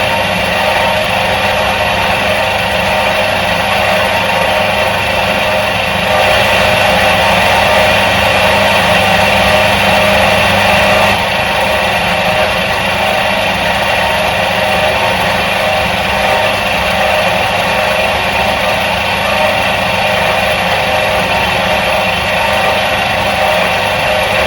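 Electric motor of a 1977 Soviet washing machine running steadily with an even hum, a little louder for a few seconds around the middle.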